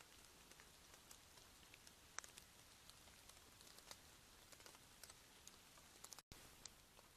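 Near silence: a faint steady hiss with scattered faint ticks, and a brief dropout about six seconds in.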